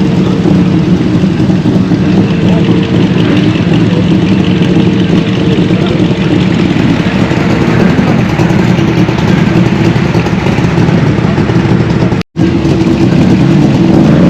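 Vehicle engines idling steadily, a low hum with a held tone, broken by a sudden brief dropout about twelve seconds in.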